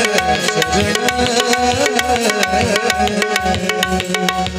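Instrumental interlude of devotional Marathi bhajan music: a harmonium melody over a held note, with a tabla-type hand drum keeping a quick, steady rhythm and small cymbals striking on the beats.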